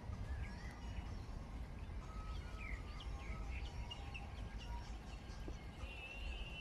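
Birds calling with short, scattered chirps over a steady low rumble of outdoor background noise.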